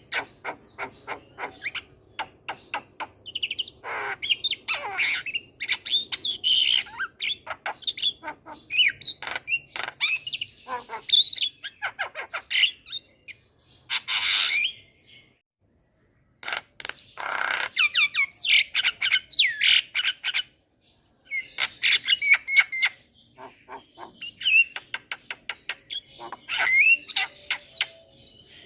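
Javan myna singing a varied, chattering song: rapid runs of clicks, whistled notes and harsh squawks, broken by two short pauses.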